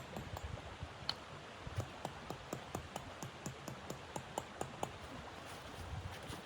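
Wood fire crackling, likely in a wood stove: irregular sharp pops and snaps over a steady hiss.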